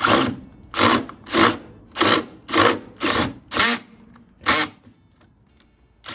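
A power drill run in short bursts, about two a second, then a pause and one more near the end. Its selector is set between the torque-clutch and drill settings, which is what the user thinks is making it misbehave.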